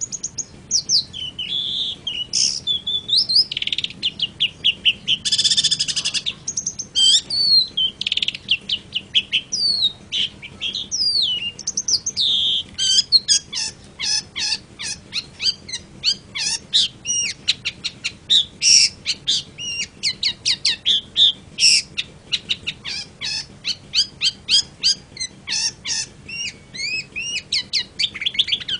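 Long-tailed shrike (cendet) singing a long, varied song of rapid chirps, sliding whistles and fast runs of repeated notes, with hardly a pause.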